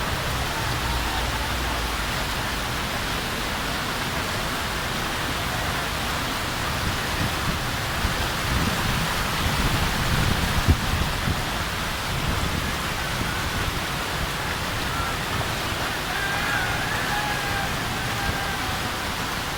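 Heavy rain falling steadily, a dense even hiss. A low rumble swells about halfway through, with one sharp knock at its peak.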